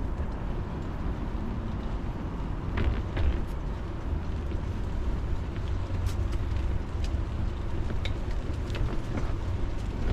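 Steady low rumble of street traffic, with a few scattered short clicks and knocks.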